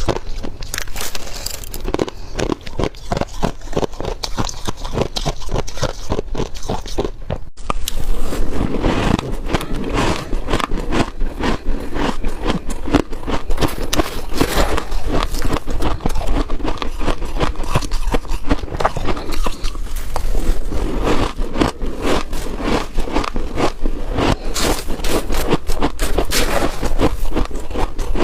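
Freezer frost being bitten and chewed: a dense, continuous run of crisp crunches and scrapes. It breaks off briefly about seven and a half seconds in, then goes on louder.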